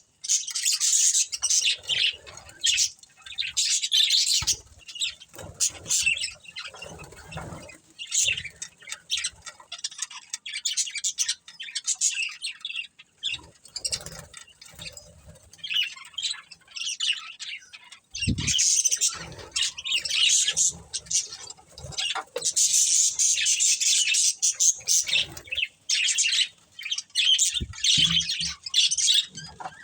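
A pair of budgerigars chirping and chattering in rapid, high-pitched bursts with short pauses between. A few short knocks come through, about four seconds in, midway and near the end.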